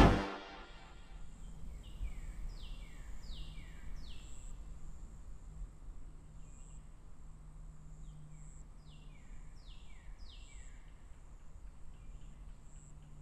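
Outdoor ambience: a bird sings a short phrase of three falling notes, twice, over a steady high insect drone and a low hum.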